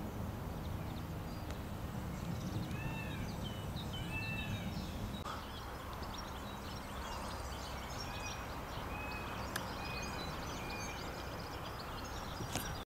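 Outdoor ambience of birds chirping, with repeated arching call notes, over a low rumble that drops away about five seconds in. Two short sharp clicks, one past the middle and one near the end.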